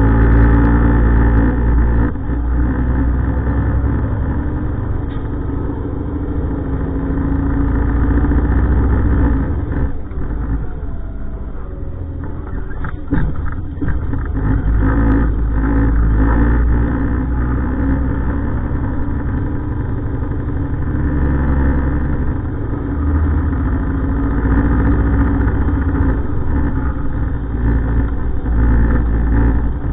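Heavy diesel truck engine running close by, its rumble swelling and easing several times as it works.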